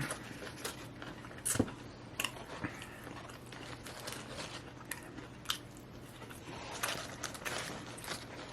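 A man chewing and biting food close to the microphone, with irregular mouth clicks and smacks throughout.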